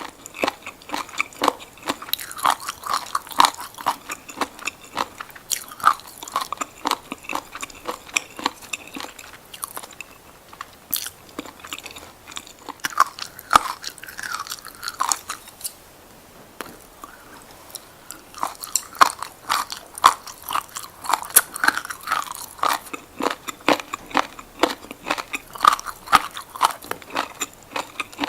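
Close-up crunchy biting and chewing of seaweed: a dense run of crisp crunches, easing off twice briefly around the middle before picking up again.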